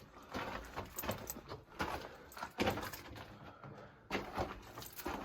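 Footsteps scuffing and crunching on the rocky floor of a narrow mine tunnel, with irregular scrapes and rattles of gear.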